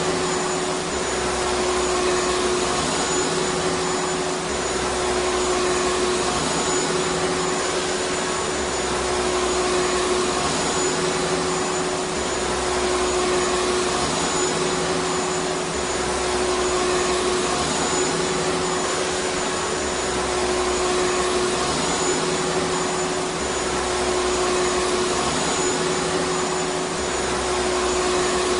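Vacuum cleaner running steadily: a continuous rushing noise with a steady whine over it.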